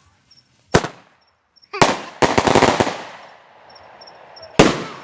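Firecrackers going off: a single pop, then a loud bang followed by a fast rattle of cracks like a string of firecrackers, and another bang near the end.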